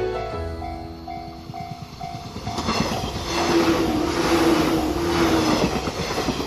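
Background music, then from about two and a half seconds in a train passing close by on the San'yō Main Line, a rushing rumble with wheel clatter and a steady tone, which dies away near the end.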